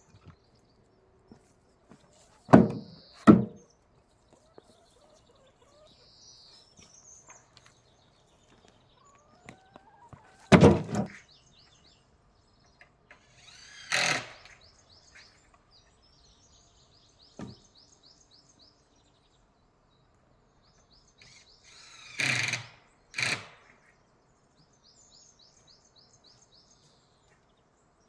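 Knocks and crashes of wood being thrown onto a pile, in a pair near the start, once or twice in the middle and a pair again near the end. Birds chirp faintly in between.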